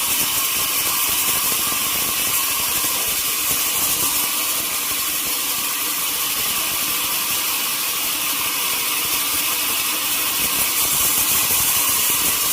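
Sawmill saw machinery running steadily, a dense, even, high-pitched noise with no breaks.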